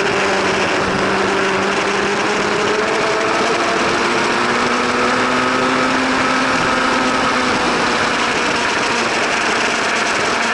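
1000 cc racing superbike engine running hard at high revs over a steady rush of noise; its pitch sags a little and then climbs slowly.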